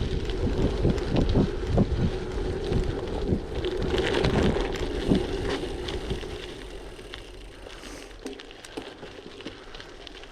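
Gravel bike rolling over a gravel track, tyres crunching and the bike rattling, with wind buffeting the microphone. It quietens about six seconds in.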